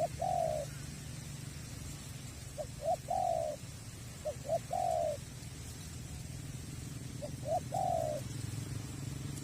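Spotted dove cooing: four phrases about two seconds apart, each two short notes followed by a longer falling coo, over a steady low rumble.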